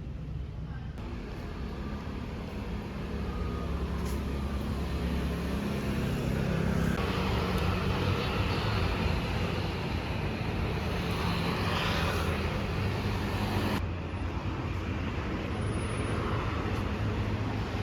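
Street traffic: a steady low rumble of passing road vehicles, swelling louder a few seconds in.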